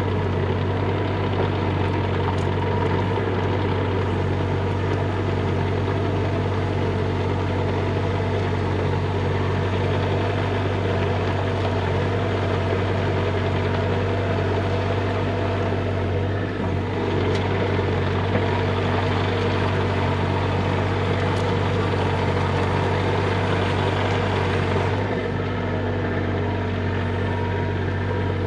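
Bobcat E35 mini excavator's diesel engine running steadily, with brief changes in tone around the middle and near the end.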